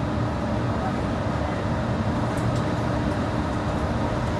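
Steady interior rumble of a Yurikamome train, a rubber-tyred automated guideway transit car, with a faint steady hum over it.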